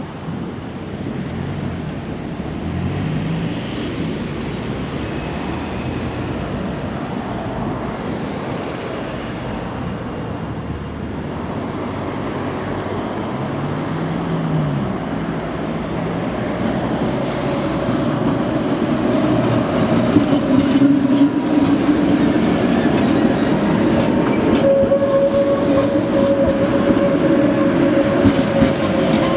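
Tram running on street track and drawing closer, its rumble growing louder. In the second half the wheels squeal in a steady high tone, and near the end come clicks over rail joints.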